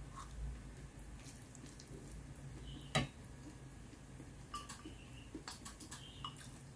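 Eating utensils tapping and scraping against a bowl: one sharp knock about three seconds in, then a run of light clicks near the end.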